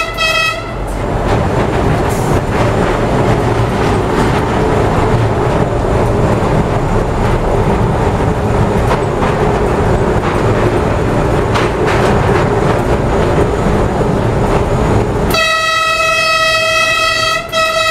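A train horn sounds for under a second. Then comes the steady running rumble and rattle of the train inside a rail tunnel. Near the end the horn sounds again for about two seconds.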